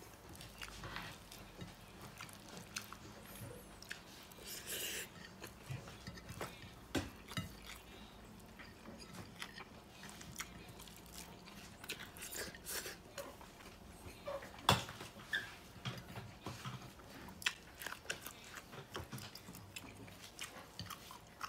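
A person chewing and smacking while eating rice and meat with their fingers: irregular mouth smacks and clicks, the sharpest about fifteen seconds in.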